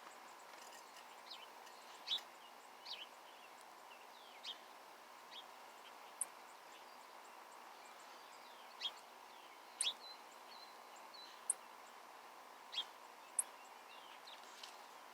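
Small birds calling: scattered short chirps and quick downward-sliding call notes, with some brief, very high, thin notes, over a faint steady hiss.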